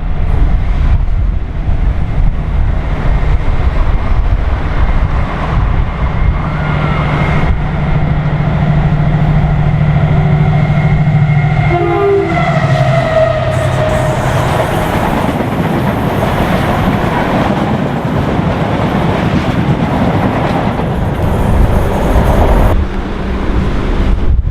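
A diesel train running past on the line, a loud steady rumble with a pitched tone that drops in pitch as it passes about halfway through.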